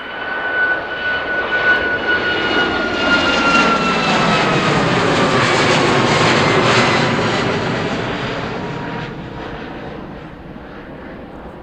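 Jet aircraft passing close by: engine noise swells to a peak and fades away, with a high engine whine that drops in pitch as it goes past.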